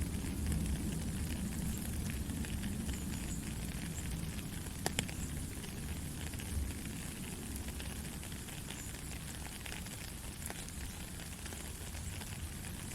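Steady rain falling, with scattered drop ticks and one sharper tick about five seconds in.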